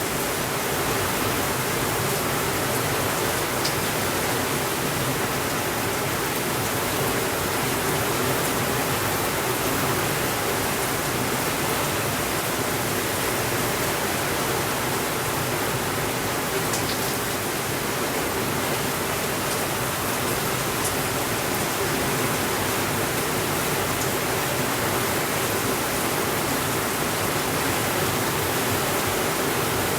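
Steady rain on a window, an even hiss with no let-up, with a few faint ticks scattered through it.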